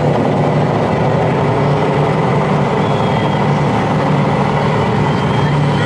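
Steady diesel truck idle from an RC model truck's engine-sound unit, over the din of a busy hall.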